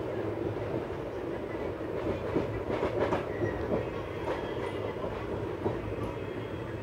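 Passenger train coach running along the track: a steady rumble of wheels on rail, with a cluster of sharp clacks about two and a half to three seconds in and a few more later.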